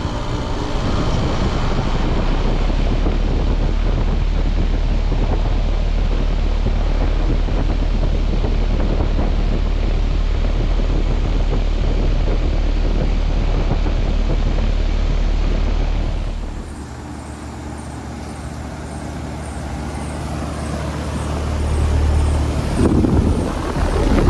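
Carrier Comfort Series outdoor air-conditioning unit running: a steady low compressor hum under the rush of the condenser fan. About two-thirds of the way in, the deep hum drops out and the sound falls away, then swells again near the end.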